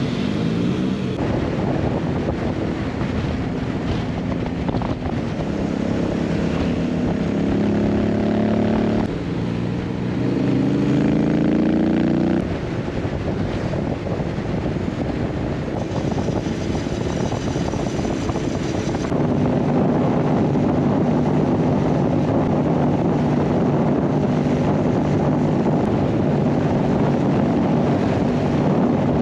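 Honda X-ADV 750's parallel-twin engine accelerating hard through the gears. Its pitch climbs and then drops at shifts about 9 and 12 seconds in, before settling into a steady drone at high speed under a rush of wind noise.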